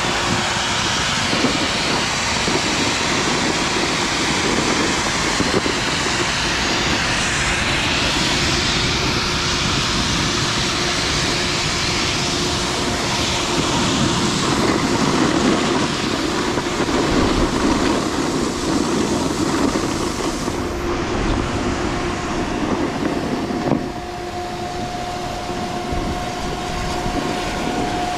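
Continuous rushing of wind on the microphone mixed with a snowboard scraping and sliding over snow while riding downhill, a little quieter near the end.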